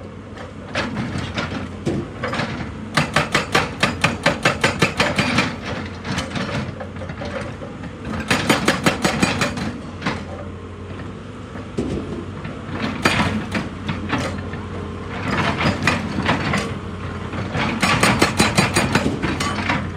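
Excavator-mounted hydraulic rock breaker hammering on rock in bursts of rapid blows, about six a second, each run lasting a second or more, over the steady hum of the excavator's diesel engine.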